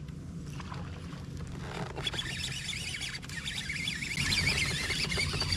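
Birds chattering in many quick, wavering chirps that start about two seconds in and grow louder, over a steady low hum.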